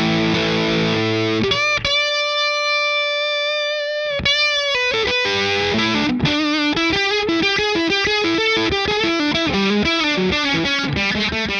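Distorted electric guitar played through a Fender '65 Deluxe Reverb reissue amp. A few chords give way about two seconds in to one note held with long sustain for about two seconds, followed by a fast run of single notes.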